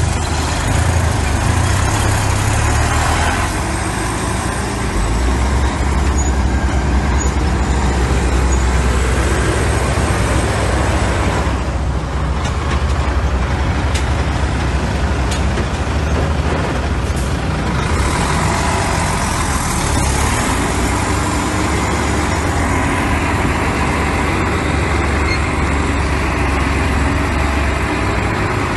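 Heavy diesel construction machinery running steadily, a low engine drone with a faint high whine over it.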